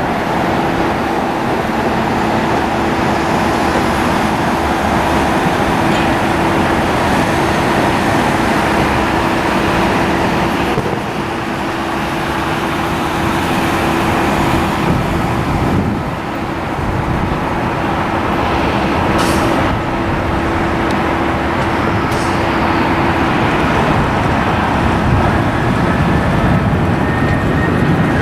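Jet airliner engines running, a loud steady rumble with a steady hum that fades out about three-quarters of the way through.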